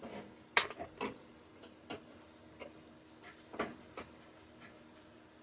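Scattered small clicks and knocks from handling the parts of a microwave being dismantled. The sharpest click comes about half a second in, with a pair more around three and a half to four seconds.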